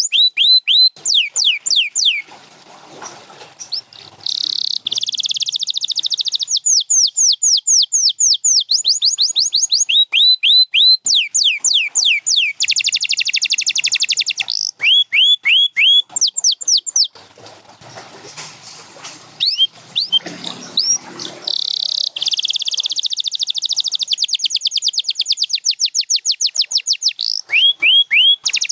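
Domestic canary singing: fast runs of repeated high, downward-sliding notes alternate with dense, rapid trills. The song breaks off twice for a couple of seconds, once near the start and once past the middle.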